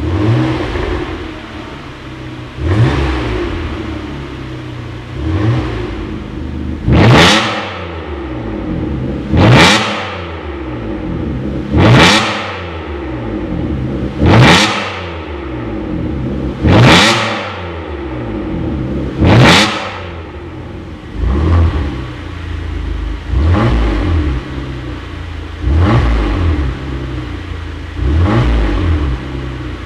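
Kia K7 Premier 3.0 LPI engine revved over and over through a full-custom dual variable exhaust, one quick rise and fall in pitch about every two and a half seconds. The revs in the middle stretch are sharper and louder; those near the start and end are softer.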